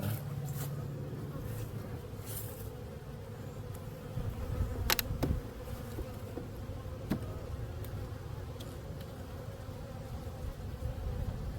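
Honeybees buzzing steadily around an opened hive, with a sharp knock about five seconds in and a lighter one a couple of seconds later.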